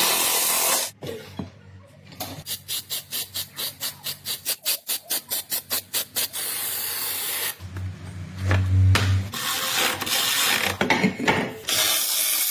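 Suspension bolts being tightened with hand and power tools: a run of evenly spaced clicks, about five or six a second, then a power tool's motor running for a second or two.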